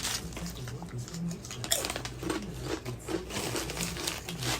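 Close-up chewing and crunching of cheddar Sun Chips, a run of irregular crisp crunches. A low voice from a TV plays underneath.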